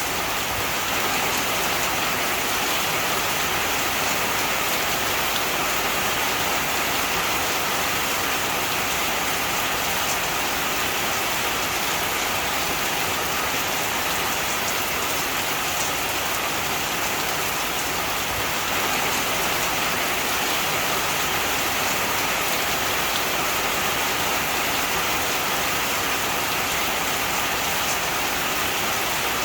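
Heavy, steady rain falling, a dense even hiss of many drops.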